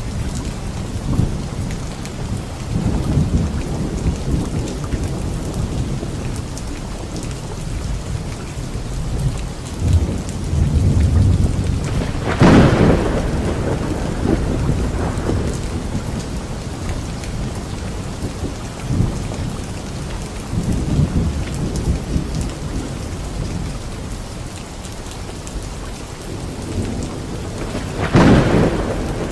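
Thunderstorm: steady heavy rain with rolling thunder rumbling throughout, and two sharper thunderclaps, one near the middle and one near the end.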